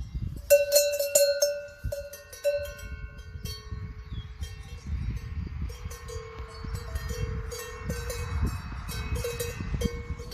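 Cowbells on grazing cattle clanking irregularly, at least two bells of different pitch ringing on after each strike, over a low rumble.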